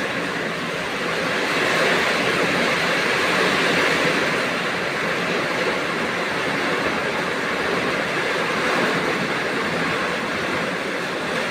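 Heavy rain pouring down in strong wind: a loud, steady rushing that swells a little about two seconds in.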